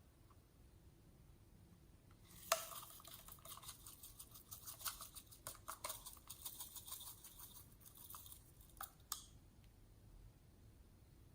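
A quick run of small sticky clicks and crackling pops from slime being worked by hand, starting with one sharp click about two and a half seconds in and stopping near nine seconds.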